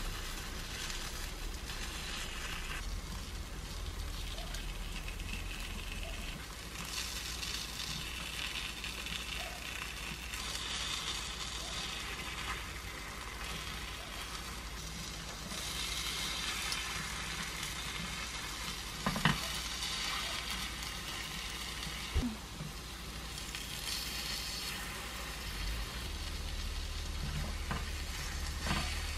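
Squid-and-chive egg batter sizzling steadily in the cups of a takoyaki pan on a gas burner, with a couple of sharp taps of wooden chopsticks against the pan about two-thirds of the way through as the balls are turned.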